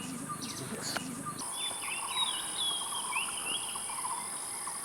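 Rainforest birds calling with short whistled notes and slurred glides, over a steady high-pitched insect drone that grows louder about a second and a half in.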